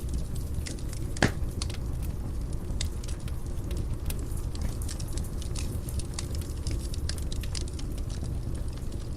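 Wood fire burning in a fireplace: a steady low rumble of flame with many small crackles, and one louder pop about a second in.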